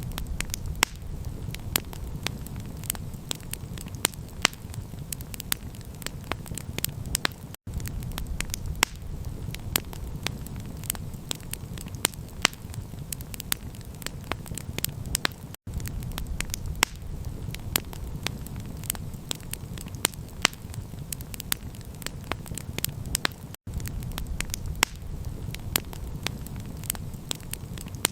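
Campfire crackling, with frequent sharp pops and snaps over a steady low rumble. The sound cuts out for an instant about every eight seconds.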